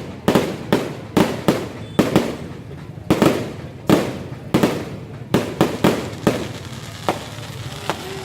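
Fireworks shells bursting in a rapid, irregular run of loud bangs, about two a second, each with an echoing tail. The bangs thin out and grow weaker near the end.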